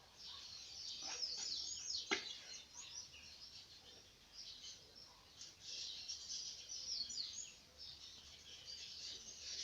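Small birds chirping and twittering in quick, high, downward-sweeping notes, coming in several bouts, with a single sharp click about two seconds in.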